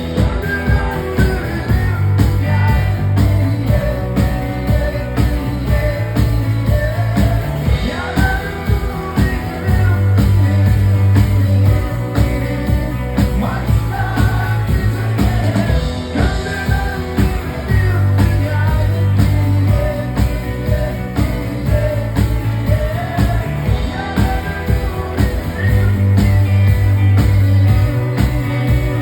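Live rock band playing a song at full volume, with a steady drum beat, a heavy pulsing bass and a melodic line riding above.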